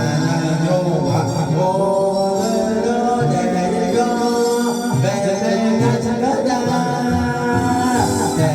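Karaoke backing track of a bouncy children's song, with singing over the steady music.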